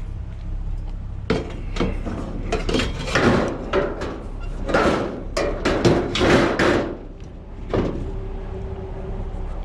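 A quick run of knocks and clatters from hard objects being moved and handled, lasting about five seconds and stopping a little before the end, over a steady low hum.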